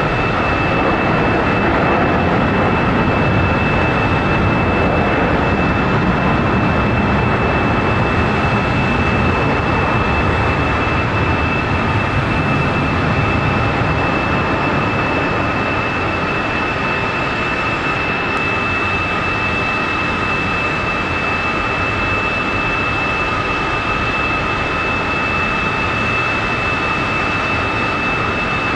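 Jet airliner engines running loud and steady: a wide roar with a high, steady whine on top, easing slightly about halfway through.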